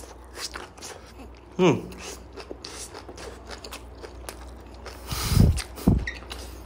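Close-up crunchy chewing of grilled pork udder, a firm, crisp-chewy meat, with many small crackly clicks. A brief voiced hum about two seconds in, and two low thuds near the end.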